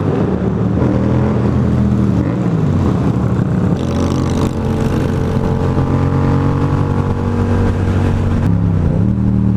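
Yamaha FZ-07 parallel-twin motorcycle engine running under way at speed, its note dropping in pitch about two and a half seconds in, then holding steady, then dipping and climbing again near the end.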